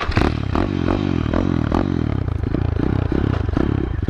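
A 125cc pit bike's single-cylinder four-stroke engine running while ridden, its pitch rising and falling with the throttle, with sharp clattering knocks from the bike over it.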